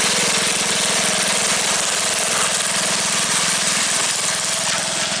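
MTD lawn tractor engine running steadily with a rapid, even firing beat, its muffler knocked off so the exhaust is a bit louder than usual.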